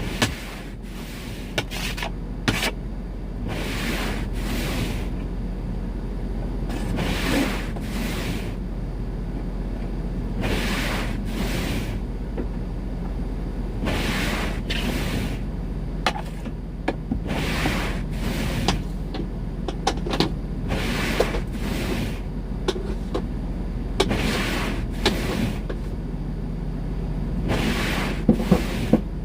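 A hand-held snow scraper being dragged across a car windshield, in repeated short scraping strokes, often in pairs, with pauses between them, over a steady low hum.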